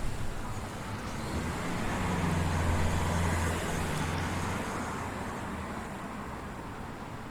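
A motor vehicle passing by: a low engine hum and road noise build to a peak about three seconds in, then fade away.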